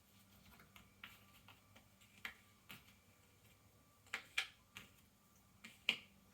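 Cardboard jigsaw puzzle pieces being handled on a tabletop: a scattering of small sharp clicks and taps, the loudest a little past four and six seconds in.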